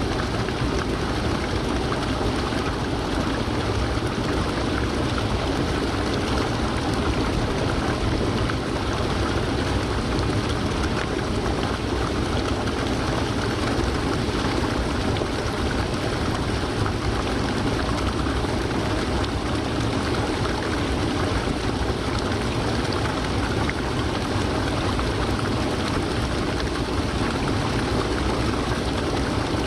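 Waterfall rushing steadily, an unbroken roar of falling water with no pauses or changes.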